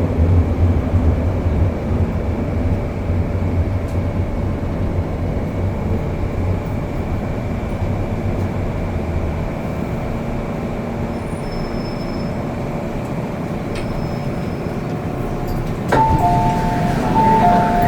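MTR M-Train running on the Kwun Tong Line, heard from inside the car: a steady rumble of the train on the track, whose deep low rumble drops away about halfway through. Near the end there is a click, then a two-tone chime that sounds twice.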